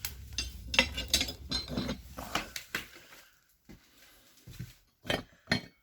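Light metallic clinking and clicking, a quick run of it over the first three seconds with a low rumble underneath, then two more clinks near the end.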